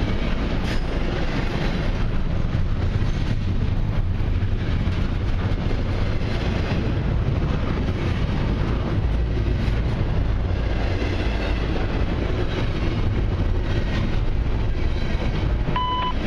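Freight cars of a long intermodal train rolling steadily past, a continuous low rumble with wheel and rail noise. Near the end, a short electronic beep sounds: the tone that opens a trackside defect detector's radio readout.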